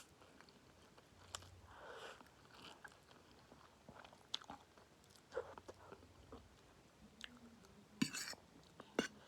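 A person eating spicy instant noodles close to the microphone: soft chewing and slurping with scattered small crunches from the peanuts mixed into them. Two sharper clicks come near the end.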